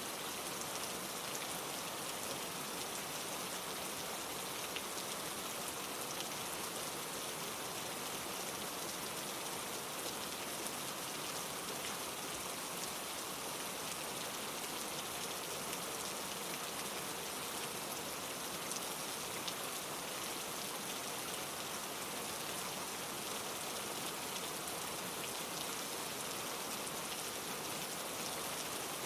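Steady rain falling on leaves, a dense even patter with scattered individual drop ticks.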